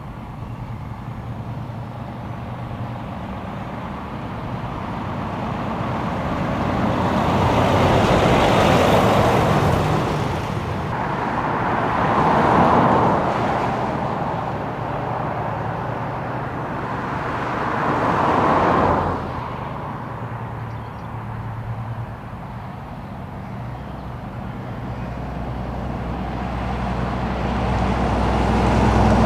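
Heavy truck diesel engines running as lorries drive past one after another. Three louder swells of engine and exhaust noise come through in the middle, each rising and then falling away, and a deeper rumble builds near the end as another truck approaches.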